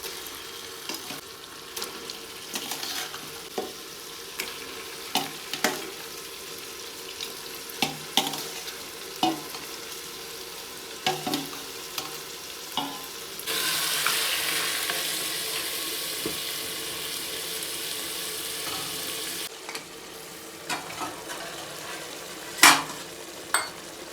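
Goat mutton frying in a pan of onion-tomato masala, sizzling steadily while a spoon stirs and scrapes against the pan with frequent sharp clicks. About thirteen seconds in, the sizzle turns louder and brighter for some six seconds, and a sharp knock on the pan comes near the end.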